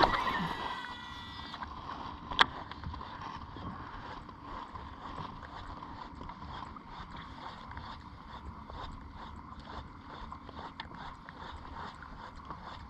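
A cast with a fishing reel: the spool whirs as line pays out, falling in pitch over the first second and a half, then a sharp click about two and a half seconds in. After that comes a steady low hum with small ticks and faint water and wind noise.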